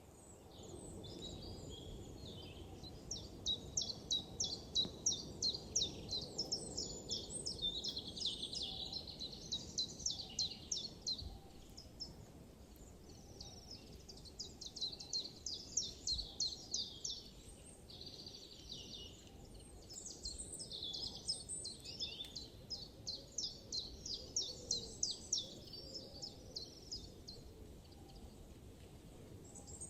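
Songbirds singing in a forest: fast trills of high notes in phrases a few seconds long, starting and stopping throughout, over a faint steady low background.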